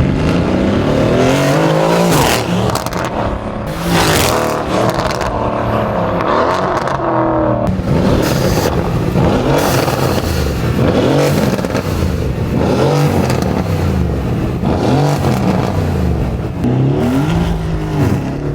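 Mercedes-AMG C63 S twin-turbo V8, straight-piped with aftermarket downpipes, accelerating hard: the engine note climbs and drops back at each upshift, over and over, with a few sharp cracks.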